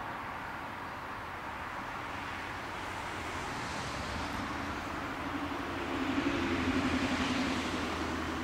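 An electric train coming along the line, its running noise and a low hum swelling and loudest about six to seven and a half seconds in.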